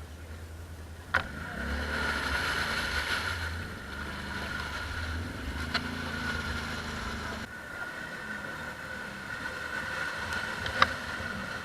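ATV engine running, its revs rising and falling, with a steady high whine over the engine note. Three sharp knocks come about 1, 6 and 11 seconds in, and the engine gets louder just after the first.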